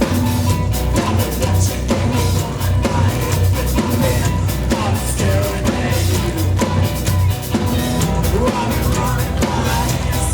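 Live rock band playing loud, with a full drum kit and a heavy, pulsing bass line under pitched keys or guitar.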